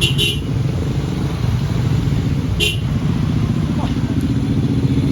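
Vehicle engines running steadily in slow traffic, a low rumble, with two short high-pitched bursts about two and a half seconds apart.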